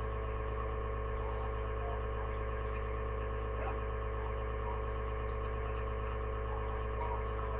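A steady electrical hum with a buzzy stack of even overtones, unchanging throughout.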